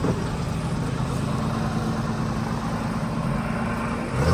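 Suzuki Grand Vitara 1.6-litre four-cylinder engine running steadily as the 4x4 crawls over rough ground. It gets louder near the end.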